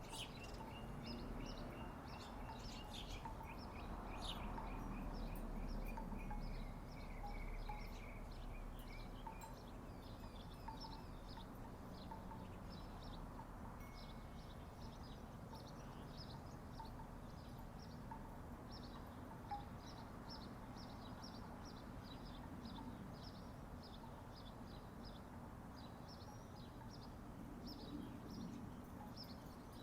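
Birds chirping repeatedly, with wooden tiki wind chimes knocking softly now and then, over a faint low background rumble.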